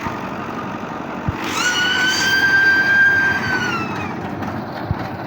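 Steady running noise of a tractor-drawn reaper binder at work. About a second and a half in, a high whistle-like tone rises, holds for about two seconds, then falls away.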